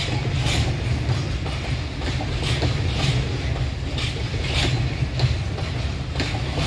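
Empty flatbed freight wagons rolling past: a steady low rumble of wheels on rails, with sharp clacks as the wheels cross rail joints every half second to a second and a half.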